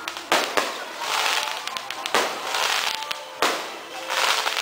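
Aerial fireworks going off: four sharp bangs, two close together near the start, then one about two seconds in and one near the end, each followed by a long hissing, crackling tail.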